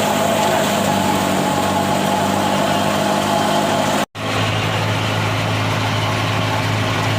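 Tractor-driven wheat thresher running steadily, the engine and threshing drum making a constant mechanical hum. The sound cuts out for an instant about four seconds in and resumes with a deeper hum.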